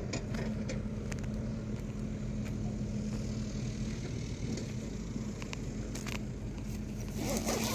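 A motor vehicle's engine running steadily nearby, a low hum with a held tone, with a few faint clicks over it.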